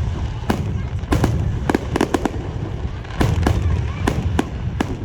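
Fireworks display: a rapid, irregular series of sharp bangs from bursting shells, about three a second, over a continuous low rumble.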